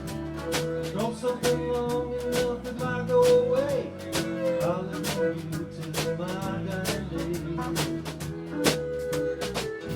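A small live band of two guitars, fiddle, bass and hand percussion playing a country-blues song, with a held, sliding melody line over a steady beat.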